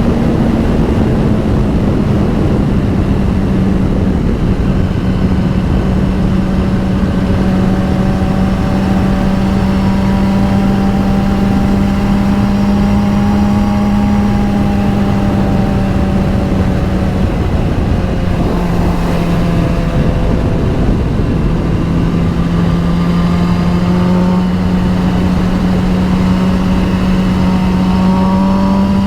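A motorcycle engine running at a steady cruising speed while riding, its pitch holding level with small dips and rises, under heavy wind rush on the rider's microphone.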